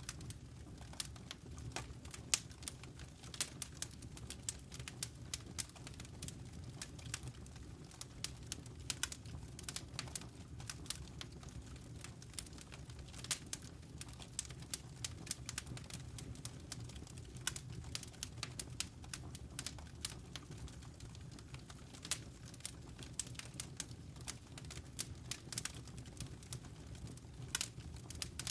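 Fire burning in a fireplace: frequent irregular crackles and sharp pops over a steady low rumble of the flames.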